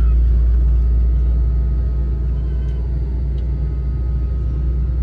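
Jet airliner cabin noise: a steady, deep rumble from the running engines and airframe, heard inside the passenger cabin while the plane waits or taxis before takeoff.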